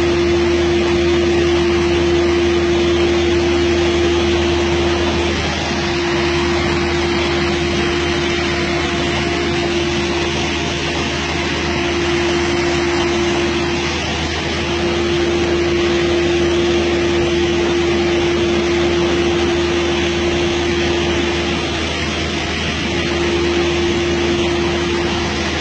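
CNC sliding-table panel saw running: a steady motor whine over a broad rushing noise and a low hum, with the whine briefly breaking and the level dipping about every eight seconds.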